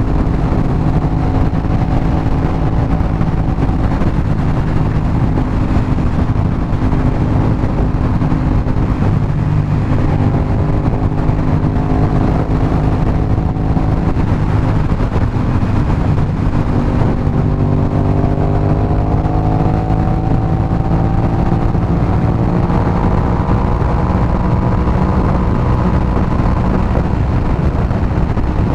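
Aprilia RS 660's parallel-twin engine through an SC Project exhaust, heard while riding: a steady engine note that rises in pitch three times as the bike accelerates, over wind noise.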